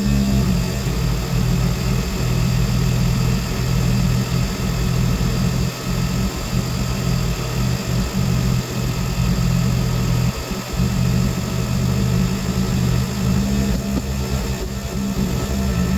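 Tractor engine running steadily as the tractor drives under its own power.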